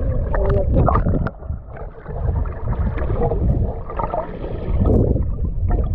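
Water sloshing and splashing with wind rumbling on the microphone, swelling and easing unevenly.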